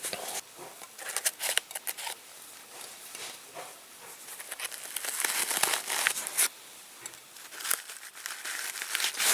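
Masking tape being peeled and crumpled: crinkling and tearing in several bursts, with scattered sharp clicks.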